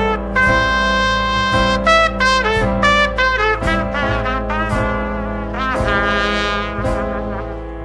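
Music: a jazz band instrumental passage, with trumpet and trombone lines playing over sustained low notes.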